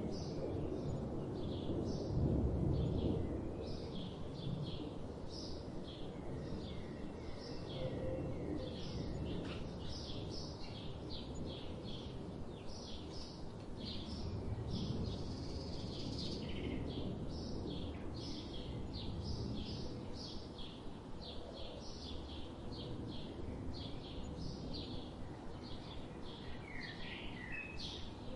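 Small songbirds chirping in quick, high, short calls in close succession, over a steady low background rumble that swells briefly about two seconds in.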